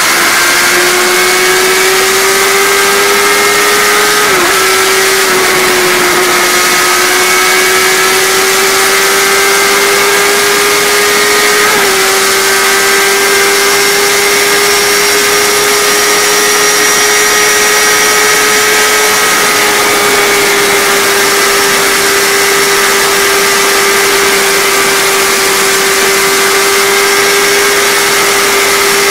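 Kawasaki sportbike's inline-four engine held at high revs at autobahn top speed, with heavy wind rush over the rider. The engine note holds steady and creeps slowly higher, dipping briefly twice, around four and twelve seconds in.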